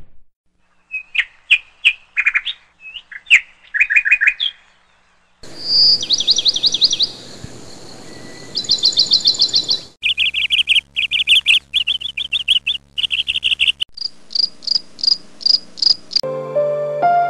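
Small birds chirping and trilling in short repeated phrases, changing abruptly every few seconds as if several separate birdsong recordings were joined end to end. Piano music comes in near the end.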